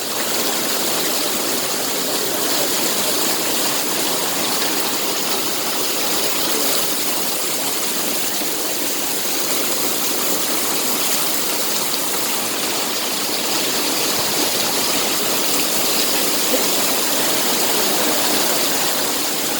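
Heavy rain pouring steadily, an even rushing hiss of falling water.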